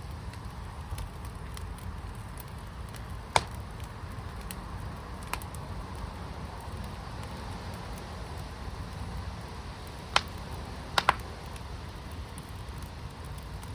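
Fire burning in a fire pit: a steady low rumble with occasional sharp crackling pops, one about three seconds in, a fainter one near five seconds, and a loud one near ten seconds followed by a quick pair.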